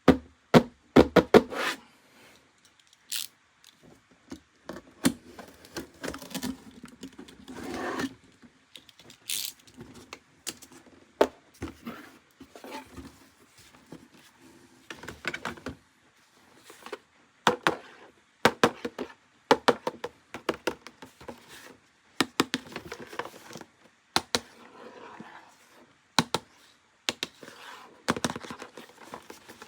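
Plastic toys and their packaging being handled and unboxed: irregular sharp clicks and knocks of plastic parts, with bits of scraping and rustling.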